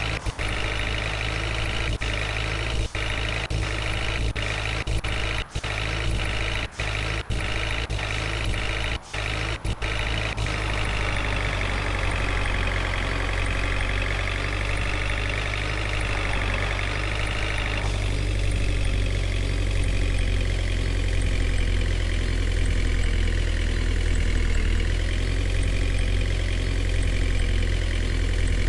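Vehicle engine running steadily at idle, cut by a string of brief, abrupt dropouts during the first ten seconds; its sound shifts about ten seconds in and again around eighteen seconds in.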